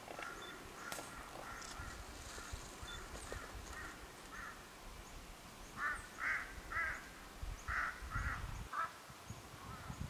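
Short bird calls, faint and scattered at first, then a quick run of about seven clearer calls a little past the middle.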